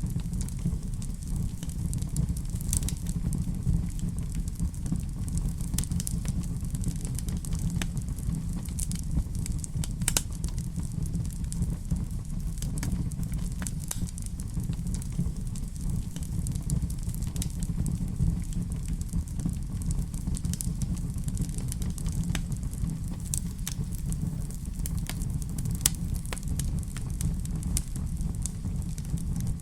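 Wood fire burning in a fireplace: a steady low rumble of the flames with scattered sharp crackles and pops every second or so.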